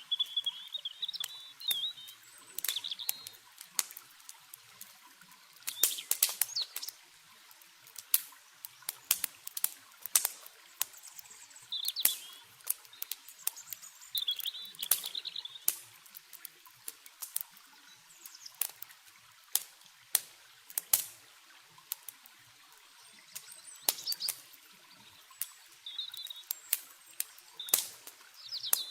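Campfire crackling and popping in sharp, irregular clicks over the steady hiss of running water. Short twittering bird chirps come every few seconds.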